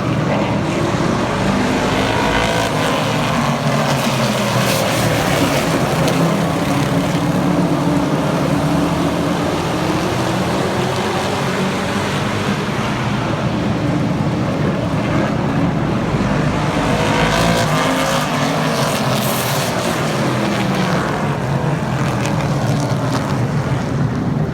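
Super trucks racing past on an oval short track: a steady loud mix of engines at racing speed, their pitch swelling and falling as the pack goes by, twice, about thirteen seconds apart.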